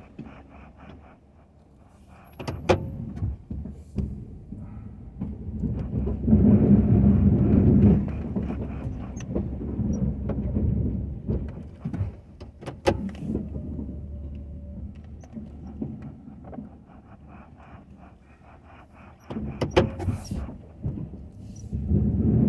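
Ford F-250 plow truck running, its low engine rumble swelling louder for a couple of seconds in the middle and again near the end, with several sharp knocks and clunks between.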